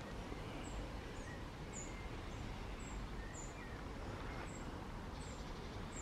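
A small bird calling with a high, thin, short note repeated roughly every half second, over a steady low outdoor rumble.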